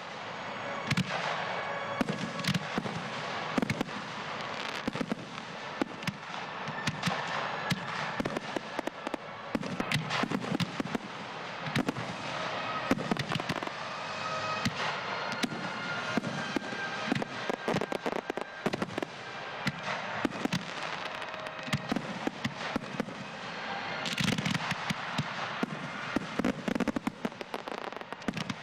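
Frontal fireworks display, a line of park fireworks firing together: dense, overlapping bangs and crackle that go on without a break, with a louder cluster near the end.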